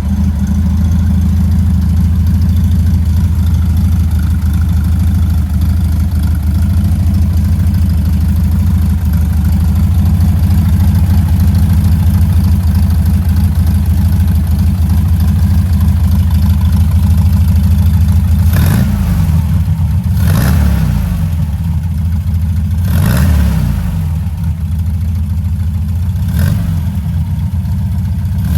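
1967 Volkswagen Beetle's air-cooled flat-four engine idling steadily as it warms up after a cold start, then blipped on the throttle about five times in quick short revs in the last ten seconds.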